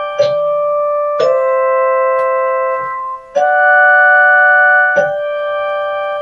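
Music on a keyboard: slow, sustained chords, each struck and held for one to two seconds, a new chord starting four times.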